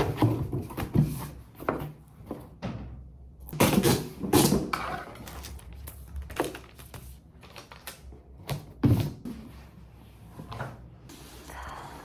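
Irregular knocks, clicks and rustles of everyday objects being handled, with a door or cupboard sound among them; the loudest knocks come at the very start and at about 4 and 9 seconds in.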